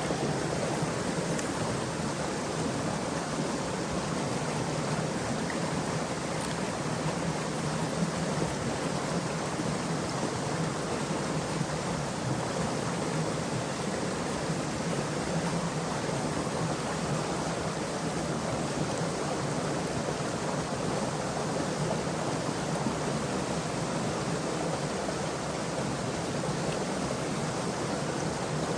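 Stream water flowing, a steady even noise that does not change.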